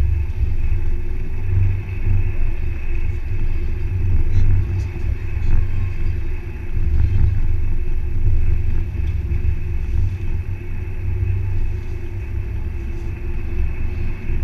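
4x4 off-roader's engine running steadily at low speed on a rough, wet track, heard as a loud low drone.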